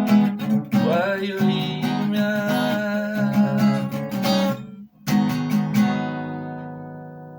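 Acoustic guitar playing the outro of a song: strumming, a brief stop about five seconds in, then a final chord left ringing and slowly fading.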